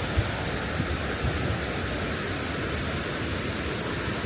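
Waterfall rushing in a steady, even roar of water, with a few brief low thumps in the first second and a half.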